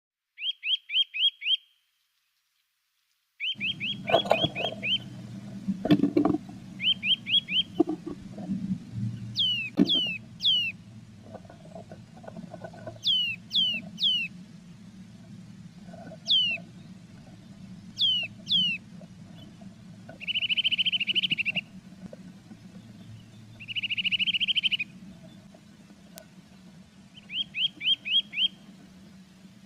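Blue tits calling: short fast trills, pairs of thin high notes sliding downward, and two buzzy churring phrases about 20 and 24 seconds in. A low steady hum and a few soft knocks lie under the calls.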